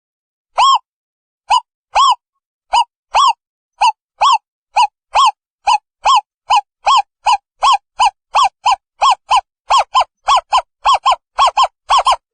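Owl calling: a series of short hooting notes, each rising and falling slightly in pitch, that speeds up from about two notes a second to about four a second near the end.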